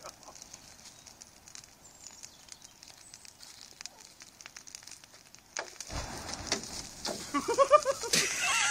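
Bonfire kindling crackling faintly with scattered small pops and a light hiss; about five and a half seconds in a louder rushing noise starts, and near the end short chirping calls join in.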